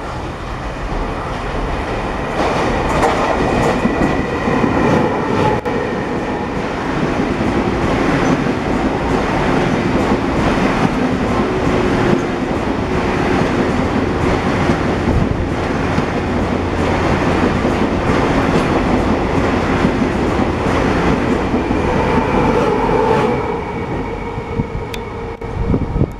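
Passenger train running past along the station platform: a loud, steady rumble of wheels on rails with regular clicking as the wheels cross the rail joints, dying away near the end.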